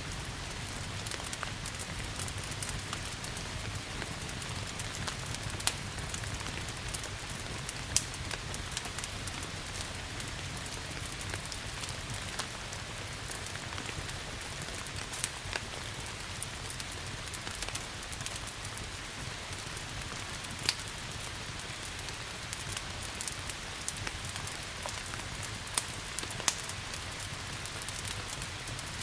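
Steady rain with a wood fire crackling, with a sharp pop every few seconds.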